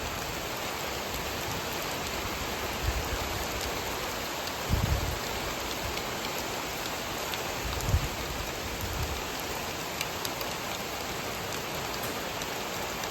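Steady rain falling, an even hiss with scattered drops, broken by a few short low thumps, the loudest about eight seconds in.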